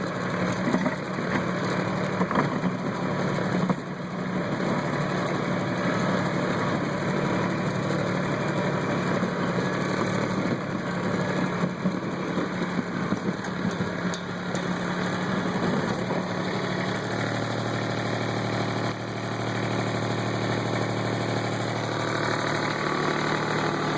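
Kubota tractor engine running steadily, its note changing to a lower, steadier hum about two-thirds of the way through.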